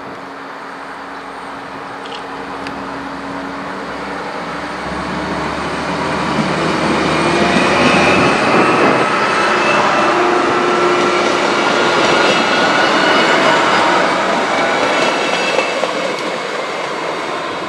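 A Stadler Class 560 diesel multiple unit passes close by. The engine and wheel noise builds to its loudest about halfway through, with a faint, slowly rising whine, then fades.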